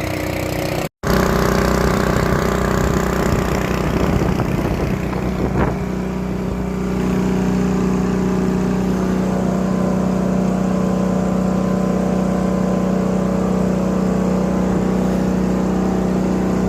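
Engine running steadily to pump liquid nitrogen fertilizer into a truck's tank, with a brief break about a second in; about seven seconds in the engine note steadies and gets slightly louder.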